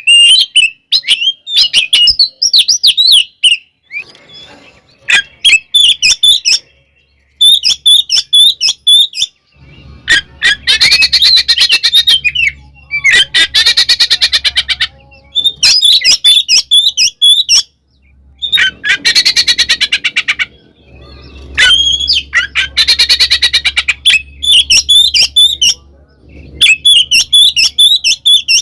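Oriental magpie-robin (kacer) in loud fighting song: bursts of clear whistled phrases alternating with harsh, rapid rattling chatters, broken by short pauses.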